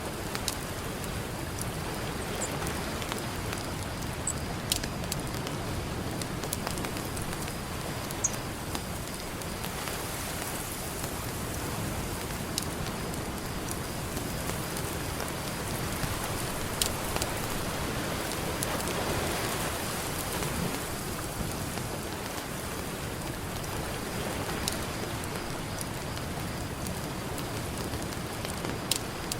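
Campfire crackling, with occasional sharp pops, over a steady wash of ocean surf that swells and ebbs.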